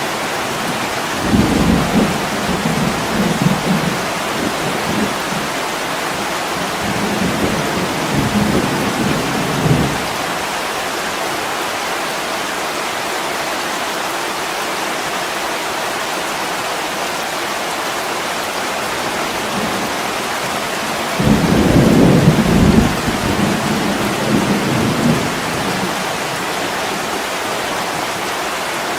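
Heavy rain pouring steadily on a window pane, with two low rolls of thunder: one starting about a second in and rumbling on for several seconds, and a stronger one about twenty seconds in.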